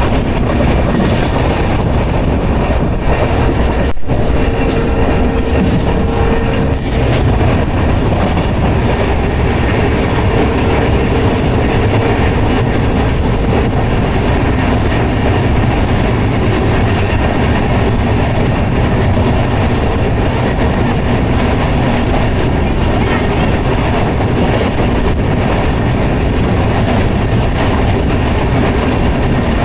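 Express passenger train running at speed: a steady rumble of wheels on rails, with a faint whine that comes and goes twice in the first half.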